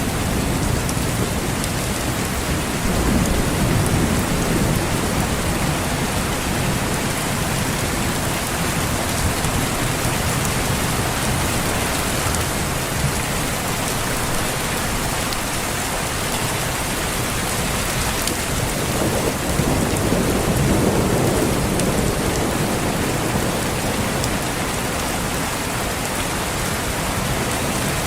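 Steady heavy rain falling. Two low rolls of thunder swell under it, one a few seconds in and one about two-thirds of the way through.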